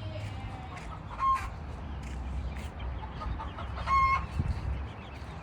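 Chickens clucking, with two short, pitched calls about a second in and about four seconds in.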